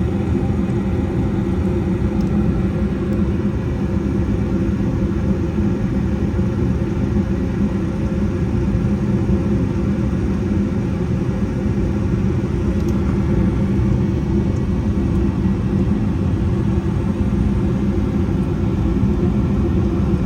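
American Standard gas furnace running steadily in heating mode, burners lit with the inducer and blower motors going. It makes a continuous low rumble with a steady hum.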